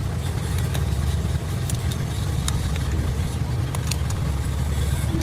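A large V8 diesel engine, the rebuilt 12-litre Mercedes OM501, running steadily at idle with a deep, even rumble. A few faint clicks sound over it.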